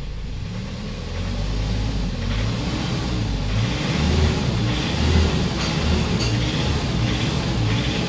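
Hyundai Starex common-rail diesel engine revved up and down again and again, about once a second, with a loud fuel knock. The mechanic puts the knock down to worn fuel injectors with too much back-leak, number 4 worst, then 1 and 3.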